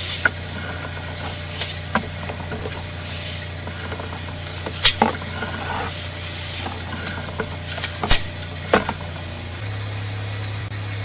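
An engine running steadily with a low hum, which shifts up about a second and a half before the end, while several sharp clicks and knocks of gear being handled sound over it.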